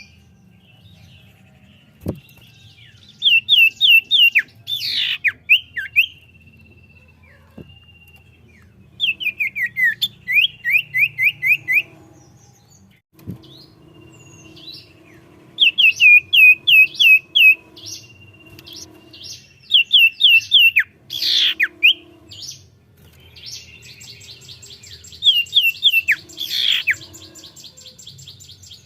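Common iora (cipoh) singing in full voice: bouts of loud, rapidly repeated chirping notes, several a second, broken by short pauses, with a fast high trill near the end.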